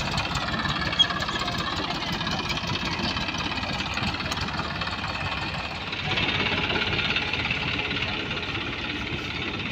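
Eicher 333 tractor's diesel engine running with a steady knocking beat, growing louder about six seconds in. A single sharp click sounds about a second in.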